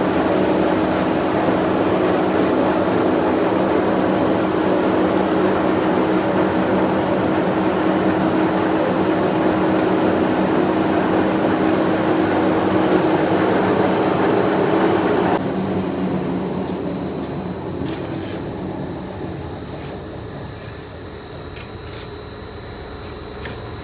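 Steady factory machinery noise with a low, even drone. About two-thirds of the way through it cuts abruptly to quieter machine noise with a thin high whine and a few sharp clicks.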